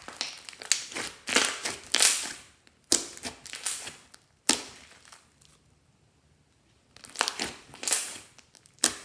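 Clear slime with eyeshadow mixed in being squeezed and worked by hand, giving wet crackling squishes and pops in several bursts, with a quiet pause of about a second and a half near the middle.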